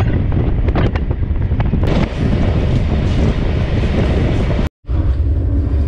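Wind buffeting the microphone over the low rumble of a moving iron ore train, ridden on top of an open ore wagon. The sound cuts out for an instant near the end, then the train's low rumble goes on.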